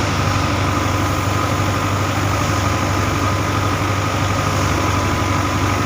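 An engine running steadily at an even speed: a constant low hum with a faint steady high whine over it.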